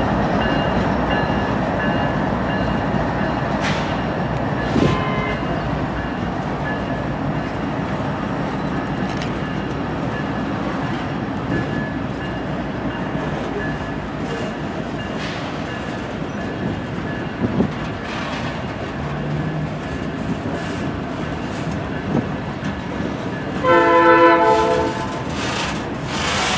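A freight train's covered hopper cars rolling past: a steady rumble of wheels on rail with a few sharp clanks and a faint thin squeal. About 24 s in, a train horn blows briefly, the loudest sound.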